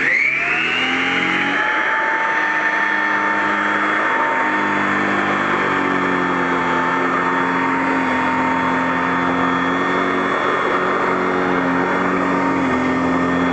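Royal Model 608 vacuum cleaner's 3-amp direct-air motor switching on and spinning up with a rising whine over the first second or two, then running steadily at full speed.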